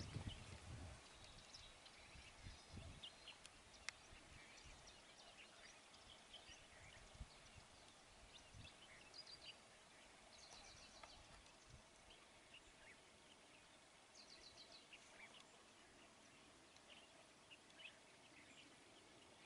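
Faint wild birds calling: scattered short chirps and a few quick trills over a low hiss, with a few low rumbles in the first three seconds.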